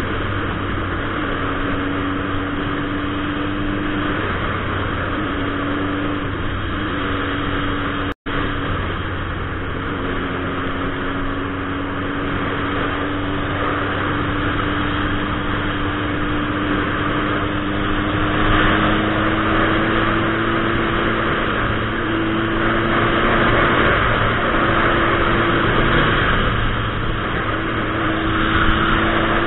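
Turbocharged 2006 Suzuki Hayabusa inline-four running under way, heard through wind noise at a helmet camera. The engine note climbs slowly as the bike gathers speed, and the wind grows louder in the second half. The sound cuts out for an instant about eight seconds in.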